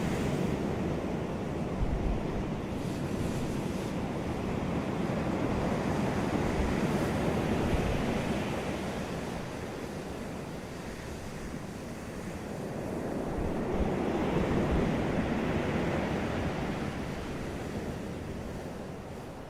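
Ocean surf on a beach: waves breaking and washing up the shore, swelling and falling away in slow surges, two big swells several seconds apart. Some wind noise on the microphone is mixed in.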